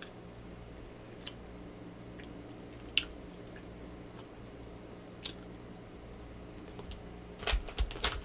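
Close-miked chewing of a cookie: a few isolated wet mouth clicks, then a quick run of crunchy chewing clicks near the end.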